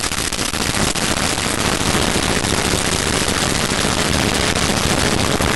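Piston engine of a propeller aircraft running as it taxis past, a loud, steady, rapid crackling rattle of firing pulses.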